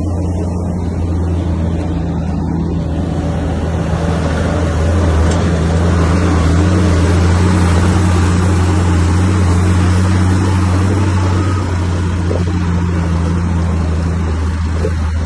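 Komatsu bulldozer's diesel engine running with a steady deep hum, growing louder and noisier for several seconds in the middle before easing back.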